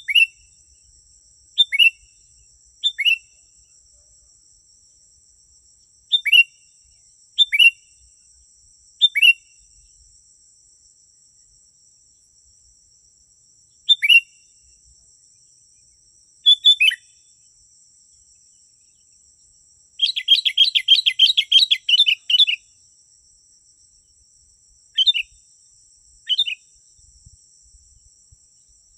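Sooty-headed bulbul calling: short, downward-sliding chirps, often in quick pairs and spaced a second or more apart, with a fast chattering burst about two-thirds of the way through. The recording is a lure call meant to draw in wild bulbuls.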